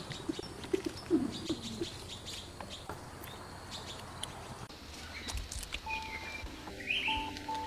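Birds calling outdoors: a dove cooing low in the first second or two, with scattered high chirps and clicks. Background music with sustained notes comes in about six seconds in.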